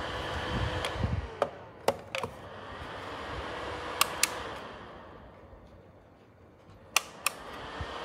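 Plastic clicks, several of them in pairs, from a small desk space heater's controls being handled, over the steady hum of its fan. The hum fades after a pair of clicks about four seconds in and comes back after another pair near the end, as the heater is switched off and on again.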